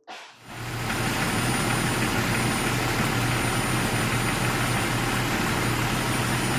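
2001 Jeep Cherokee's 4.0-litre inline-six idling steadily, with a faint steady high-pitched whistle over it: air being sucked in through a cracked vacuum line at the brake booster.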